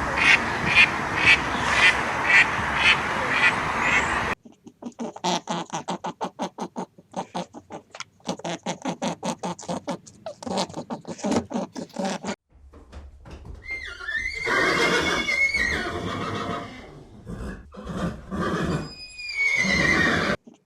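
Ducks quacking in a steady run of calls for the first four seconds. Then a stretch of rapid, rhythmic clicking sounds in bursts. Then, in the last part, a horse whinnying, its pitch rising and falling.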